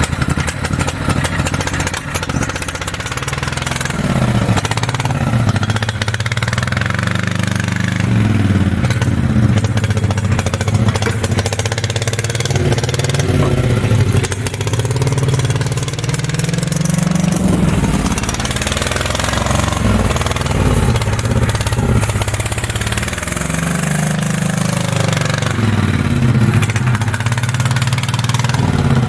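Large home-built mini bike's V-twin engine running under way, revving up and easing off again and again, its pitch climbing and then dropping back about every four to six seconds.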